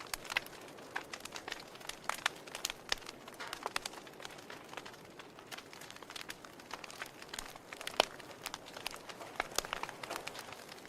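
Logs burning in a fireplace, crackling with irregular snaps and pops over a soft hiss, one sharper pop about 8 seconds in.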